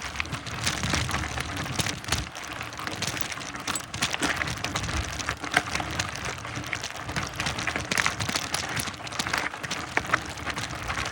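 Mountain bike rolling over a dirt trail: tyres crunching on loose ground, with a steady crackle of small knocks and rattles.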